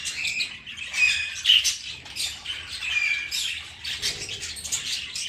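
Several budgerigars chattering: many short, overlapping squawks and chirps.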